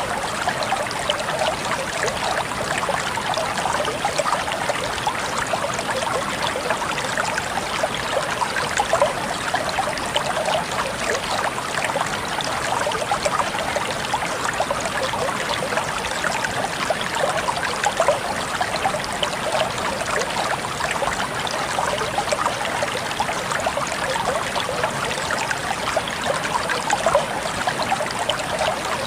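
Water flowing and trickling steadily, with a dense patter of small splashes.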